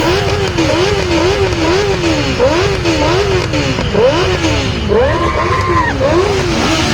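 Several motorcycle engines revving together, throttles blipped up and down over and over, with quick rising revs overlapping one another.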